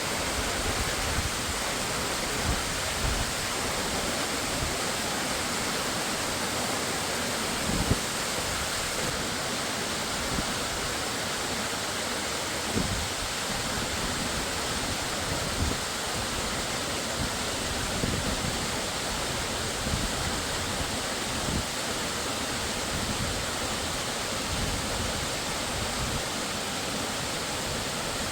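Waterfall rushing with a steady, even roar of falling water. A few brief low thumps, the biggest about eight seconds in.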